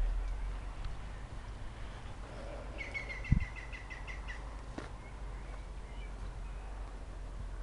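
A small bird gives a quick run of about ten chirps, lasting a second and a half, a little under halfway through. A single sharp thump just after the chirps begin is the loudest sound, over a steady low rumble on the microphone.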